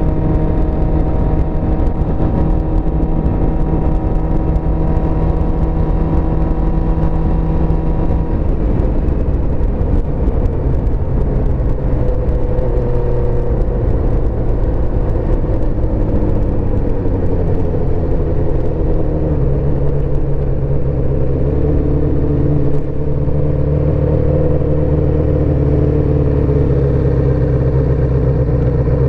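1984 Suzuki GSX-R400's inline four-cylinder engine running under way, heard from the rider's position. It holds a steady note for about eight seconds, then the note wavers and drops for several seconds, and it settles into a lower steady note for the last ten seconds.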